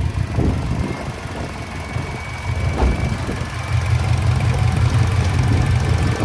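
Honda K24 four-cylinder engine idling as it warms up, with a faint steady high whine over the low running note.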